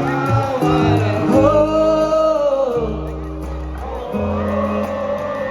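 Live band music: a male voice singing long, drawn-out notes over bass guitar and drums, with steady hi-hat ticks.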